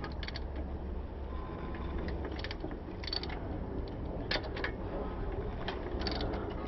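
Hand tools and metal parts clicking and clinking during work on a motorcycle's rear wheel, as scattered short clicks over a steady low hum.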